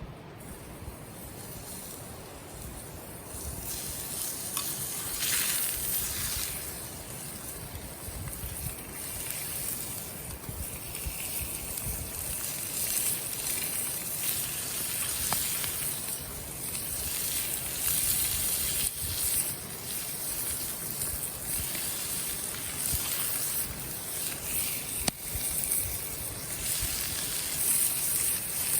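Food sizzling over a wood campfire, a hiss that swells and fades every few seconds, with occasional sharp crackles.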